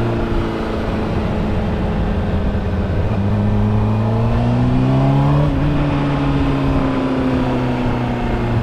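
Honda CBR600RR's inline-four engine running steadily. Its pitch rises smoothly about three seconds in, then drops back and holds a little lower.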